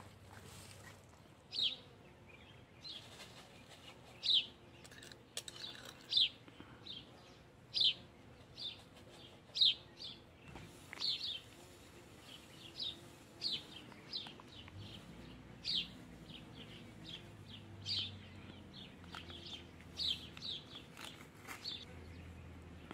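Small birds chirping over and over, short high chirps a little more than once a second.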